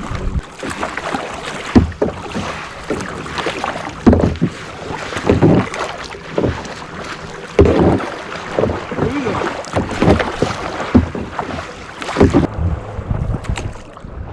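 Paddling on open water: irregular splashes of water with wind buffeting the microphone.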